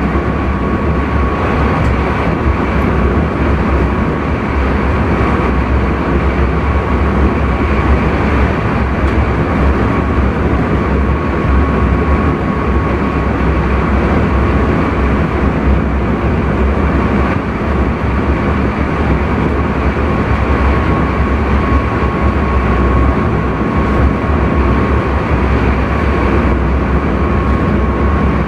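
Intercity train running at speed, heard from inside the driver's cab: a steady rumble of wheels and running gear with a faint steady high whine over it.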